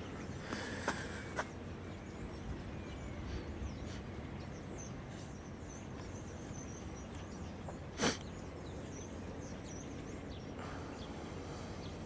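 Outdoor ambience: steady low background noise, with faint high bird chirps through the middle and a single sharp click about eight seconds in.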